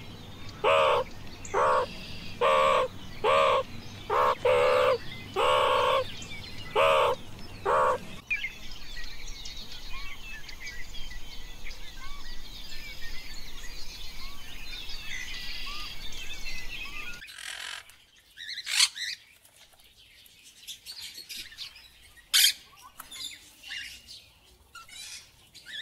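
Birds calling and chirping. For the first eight seconds a loud call repeats about once a second, then many small high chirps overlap, and from about seventeen seconds in come sparser, louder chirps.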